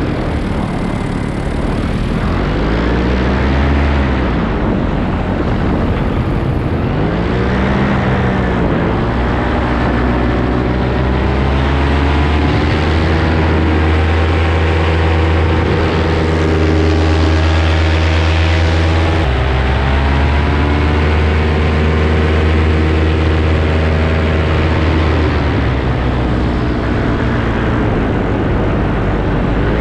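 Paramotor engine and propeller running continuously in flight. The pitch swells and falls a few times in the first several seconds, then settles to a steady drone.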